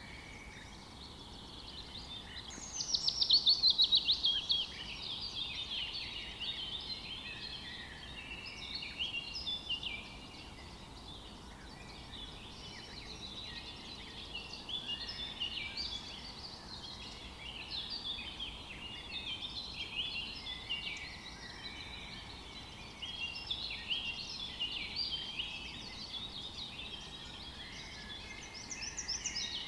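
Several songbirds chirping and singing at once, overlapping short phrases throughout, with a loud, rapid trill that falls in pitch about three seconds in.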